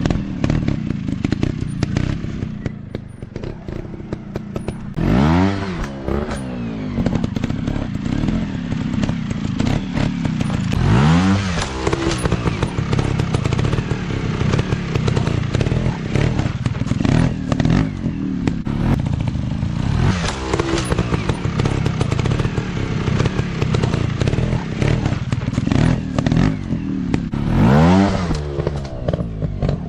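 Dirt bike engine running hard off-road, blipped up in pitch in four sharp throttle bursts about six to eight seconds apart, with clattering and knocking between them.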